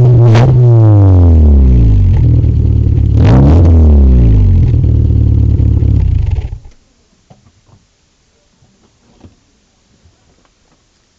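Ford Fiesta XR2i four-cylinder engine through a Malon aftermarket exhaust with resonator. It is let down from high revs, blipped once more about three seconds in, and settles to idle. About six and a half seconds in the engine sound cuts off abruptly, as if the engine were switched off, leaving only faint clicks.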